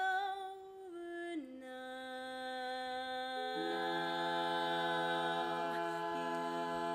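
Women's barbershop quartet singing a cappella: one voice sings the opening words "It's over now", then the other voices come in about halfway through and hold a sustained chord together.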